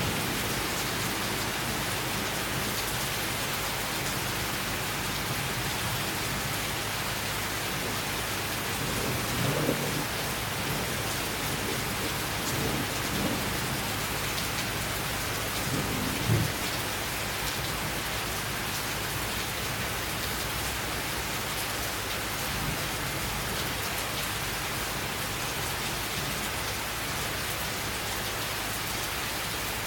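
Steady summer downpour, with a few low thunder rumbles rising briefly out of it about ten seconds in, again around thirteen seconds, and most strongly about sixteen seconds in.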